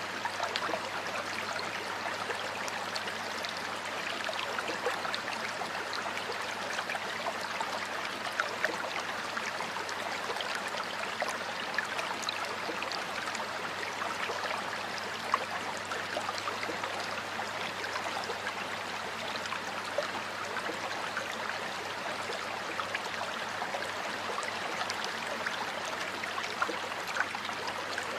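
Stream of water flowing steadily, with many small splashes and trickles over a constant rushing sound.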